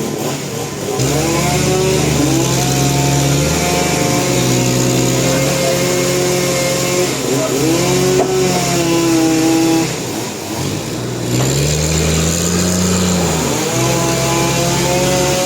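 An engine running steadily under changing load, its pitch sagging and climbing back several times.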